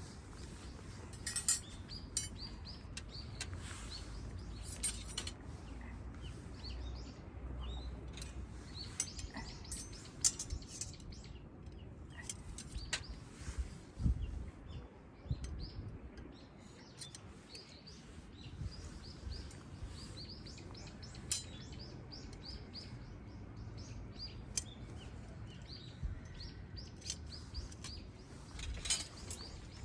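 Small birds chirping repeatedly, with scattered sharp clicks and knocks, the loudest about two-thirds of the way through, over a low rumble.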